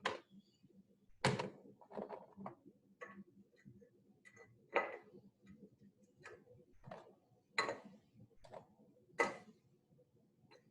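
Small toy animal figures being set down and moved around in a cupcake pan, giving about ten separate hard clicks and clunks at irregular intervals.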